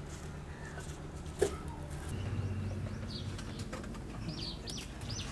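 Birds chirping in short, high calls, more of them in the second half, with a single sharp click about a second and a half in.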